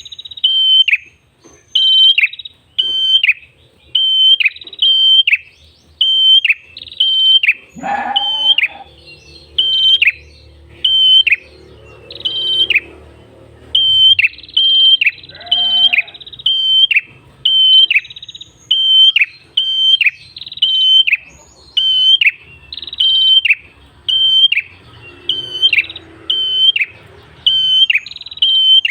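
Prenjak kepala merah (a tailorbird) singing: a long run of loud, sharp repeated notes, about one and a half a second, each dropping off at the end, with a short pause about halfway.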